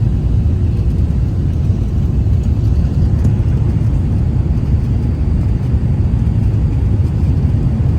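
Steady low rumble of an Airbus A380 airliner, heard inside the cabin: engine and airflow noise.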